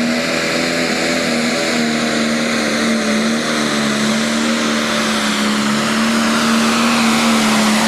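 Pro Stock pulling tractor's turbocharged diesel engine running flat out at high, steady revs, its pitch wavering slightly, with a bright whistling hiss over the engine note.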